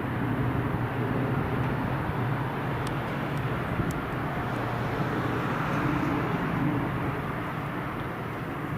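A train going by with a steady low diesel engine drone and rumble, with a few faint high ticks.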